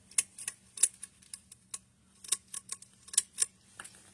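Pull-chain switch on a Casablanca Delta ceiling fan, an arcless type, clicking as its chain is pulled over and over: about a dozen sharp clicks at uneven spacing.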